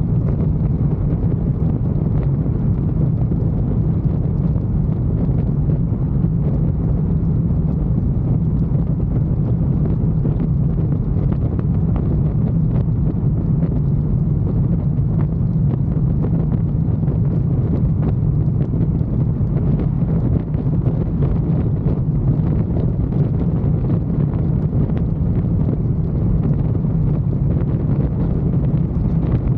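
Motorcycle riding at a steady speed: a constant engine drone under wind rushing over the microphone.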